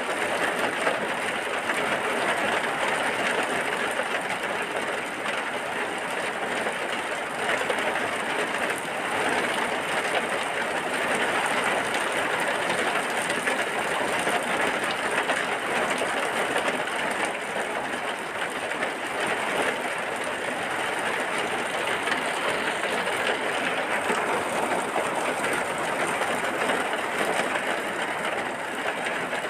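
Steady heavy rain, a dense even hiss of falling drops.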